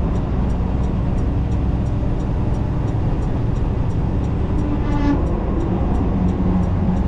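Steady low drone of an 18-wheeler's diesel engine and road noise heard inside the cab while cruising slowly. A faint, even ticking runs about four times a second, and a brief pitched tone sounds about five seconds in.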